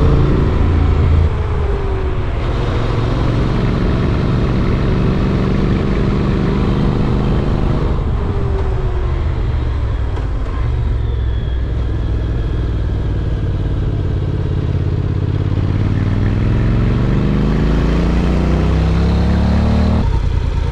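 Honda NC750X's parallel-twin engine under way, its note climbing with the revs and dropping back at gear changes, with a long climb near the end.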